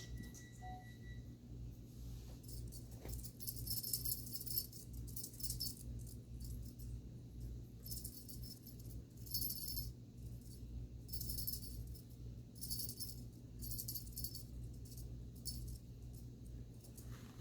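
A bell on a kitten's toy jingling in short bursts, about six of them, over a steady low hum.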